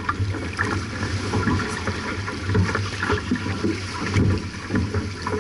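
Wind buffeting the microphone and water rushing and slapping against the hull of a J/24 racing sailboat under way, with a steady low rumble and irregular short knocks and splashes.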